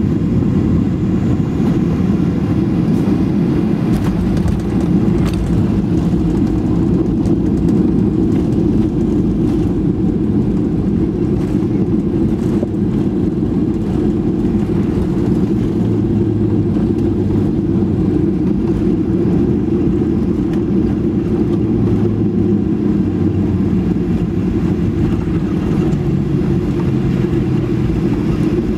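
Steady engine and airflow noise heard inside the cabin of a Boeing 737 airliner, a loud low rumble with no sharp events. A faint low hum comes and goes in the second half.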